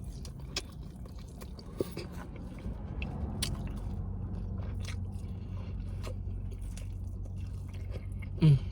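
A person biting and chewing food close to the microphone, with scattered short mouth clicks and crunches. Near the end comes a loud, short vocal sound that falls in pitch.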